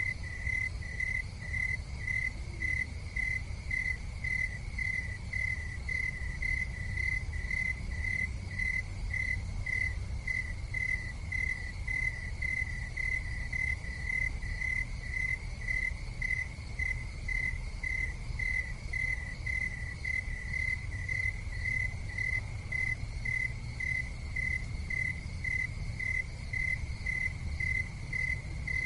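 An insect chirping steadily and evenly, a little under two chirps a second, over a low steady rumble.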